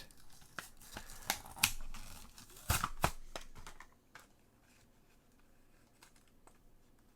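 Toy car packaging being torn and crinkled by hand: a run of sharp tearing and crackling clicks over the first four seconds, loudest about three seconds in, then only faint handling noise.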